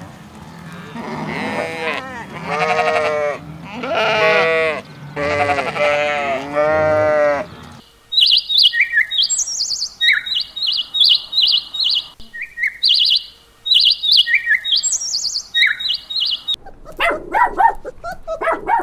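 Sheep bleating, about five long calls one after another, then a stretch of rapid, high chirping from small birds. Another lower animal call comes in near the end.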